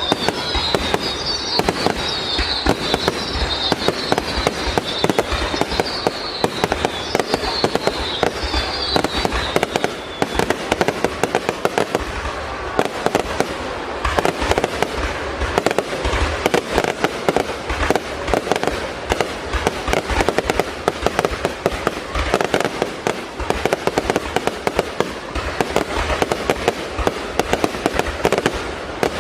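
Fireworks display: a dense, continuous barrage of bangs and crackling, with a high wavering whistle over roughly the first third.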